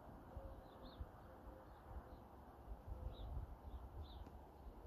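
Faint bird chirps: a few short, high chirps spaced a second or so apart, over a low rumble.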